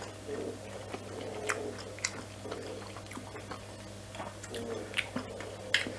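People chewing mouthfuls of cooked vegan sausage with mouths closed, with a few sharp wet mouth clicks now and then, over a faint steady low hum.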